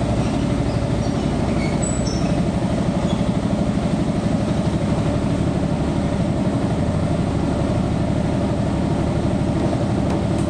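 Motorcycle engine running steadily while riding, with a fast, even low pulsing and a rush of noise over it.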